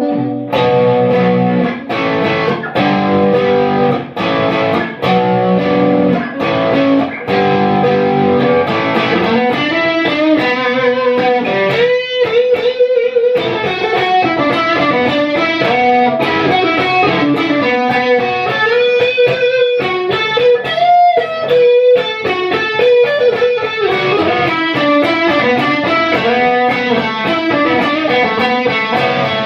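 Harley Benton ST-62 electric guitar playing: chords cut off by short stops for the first several seconds, then a running single-note melodic line.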